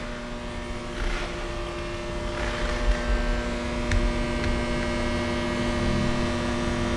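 Steady electrical machine hum made of several held tones, with a few soft knocks and one sharp click about four seconds in.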